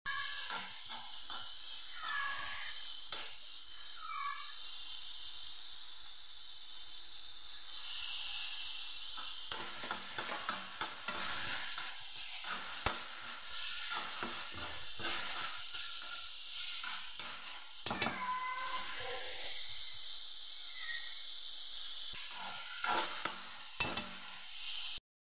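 Baby corn, onion and capsicum sizzling in a hot metal kadai while a metal spoon stirs and scrapes them around the pan, with frequent clicks of the spoon against the metal. Vinegar has just been added to the stir-fry.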